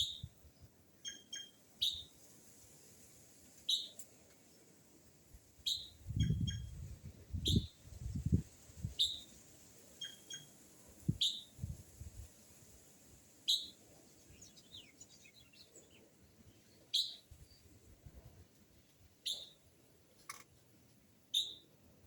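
Birds calling: one repeats a short, sharp call about every two seconds, while another adds brief clusters of quick notes now and then. Low rumbling bumps come a third of the way in.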